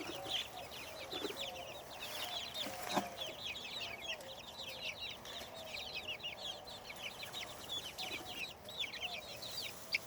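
A flock of young chickens, Naked Neck (Turken) chicks among them, peeping constantly: many short, high, falling peeps overlapping, with some lower clucking calls beneath.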